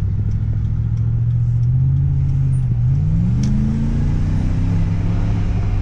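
Car engine running under load with a steady low hum, its pitch rising about three seconds in as it speeds up, then holding.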